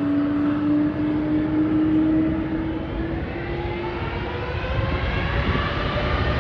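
Boeing 777-200 jet engines running: a steady hum fades about three seconds in, and then several whines climb in pitch as the engines spool up, over a low rumbling noise.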